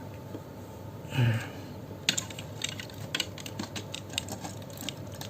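Small hard plastic model-kit parts clicking and tapping against each other as pieces are handled and pressed onto pegs, in an irregular string of sharp clicks. A short dull sound comes about a second in.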